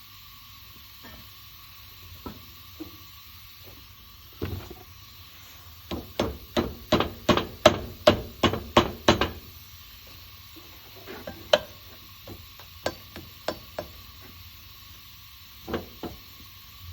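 Hammer blows: a few scattered single strikes, then a quick run of about a dozen blows at roughly three a second, then a few more spaced strikes near the end.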